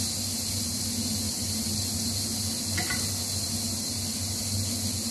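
Steady sizzle of broccoli florets chargrilling in olive oil in a hot pan over high heat, with a brief click about three seconds in.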